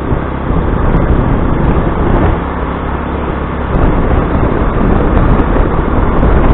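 Motor scooter running as it rides along, its engine under a steady rushing noise that gets louder about half a second in and again about four seconds in.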